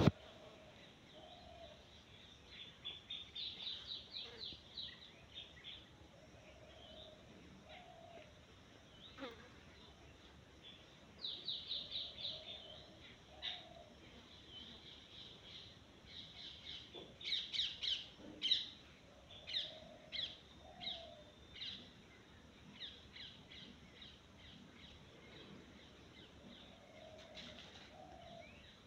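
Birds chirping in quick runs of high notes, in several bouts, with a faint low call coming back every few seconds.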